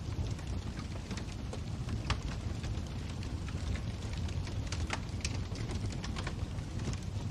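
Wood fire burning in a fireplace: a steady low rumble of flames with many sharp crackles and snaps at irregular moments.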